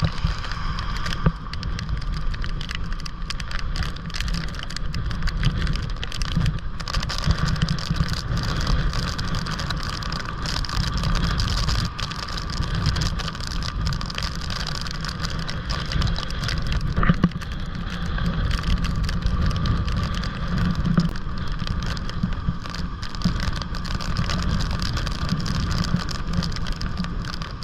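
Storm wind buffeting the microphone over rough surf, a continuous heavy rumble with a steady rushing hiss above it.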